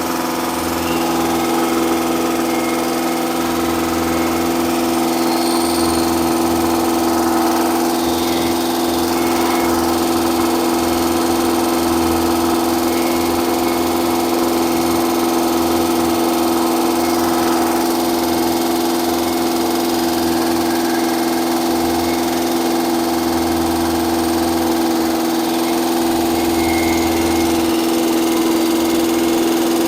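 Engine running steadily at a held speed during the break-in of a newly installed camshaft, with no change in pitch.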